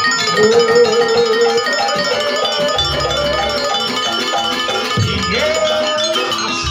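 Campursari band playing instrumental dance music: a long wavering melody over steady plucked and struck notes, with deep bass or drum passages coming in twice.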